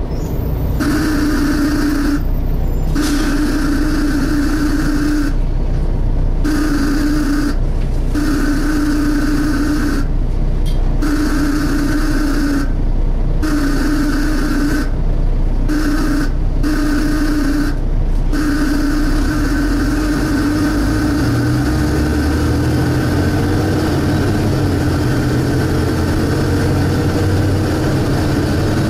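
Volvo B7TL double-decker bus heard from inside. A steady whine keeps cutting out and coming back over the diesel engine, and the engine pulls harder with rising revs in the last several seconds.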